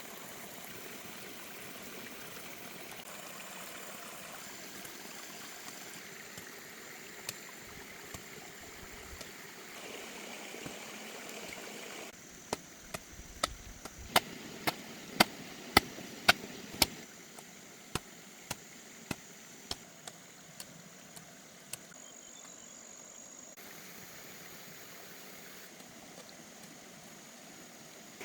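Steady rush of flowing stream water. Near the middle, a run of sharp knocks comes about two a second, the loudest sounds here, then fades to fainter, sparser knocks.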